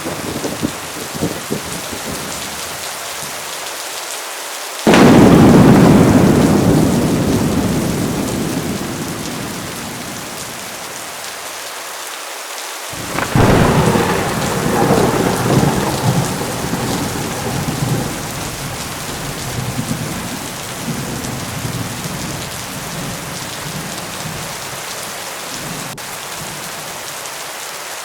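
Heavy rain falling steadily, with two thunderclaps. The first, about five seconds in, is a sudden loud crack that rumbles away over several seconds. The second, about thirteen seconds in, is a rolling rumble that goes on for several seconds.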